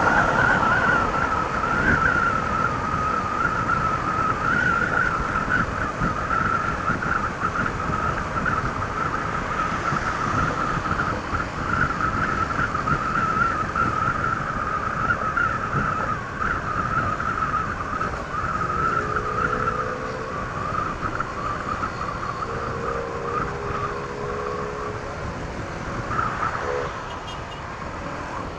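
Honda ADV 160 scooter running at cruising speed on its stock exhaust, under a steady rush of wind and road noise. The sound eases slightly in the second half, and a few steady hums come and go near the end.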